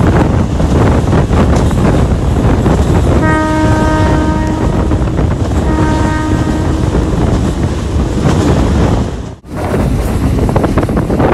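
Passenger train running loud, its rumble and wind buffeting the microphone, as the diesel locomotive's horn sounds two blasts, one about three seconds in and a shorter one about six seconds in. The noise cuts out briefly near the end, then resumes.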